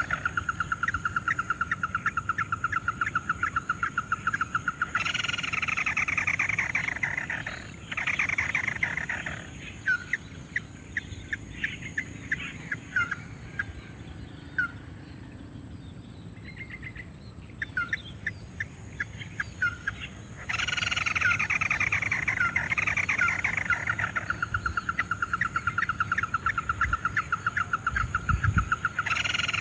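Ruddy-breasted crake calls: long runs of rapid, evenly spaced notes, several beginning with a falling series, broken by a middle stretch of scattered single calls before the fast runs resume about two thirds of the way in.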